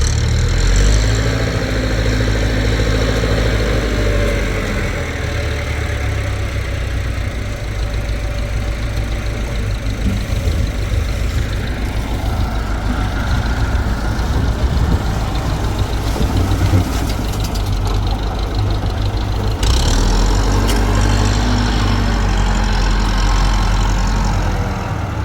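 Engine of concrete-pouring machinery running steadily. It swells with a rise and fall in pitch during the first few seconds, and again from about twenty seconds in.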